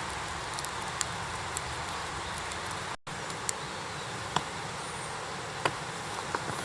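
Campfire crackling: a steady hiss with a few sharp pops scattered through it.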